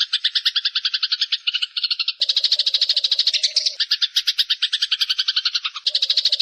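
Bird-song mastering recording: a rapid, even trill of high notes at about a dozen a second, changing abruptly about two seconds in and again near the end where the recording is spliced.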